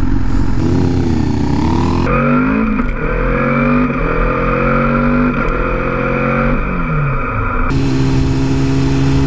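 Suzuki GSX-R 1000 inline-four engine accelerating up through the gears, its pitch climbing and dropping back at each upshift, then holding a steady pitch at an even speed near the end.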